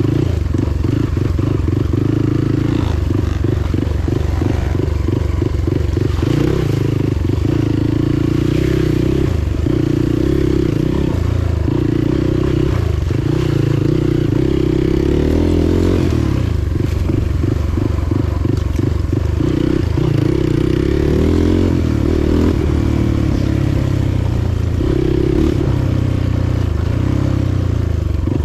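Motorcycle engine running under way, its pitch shifting a little as the revs change.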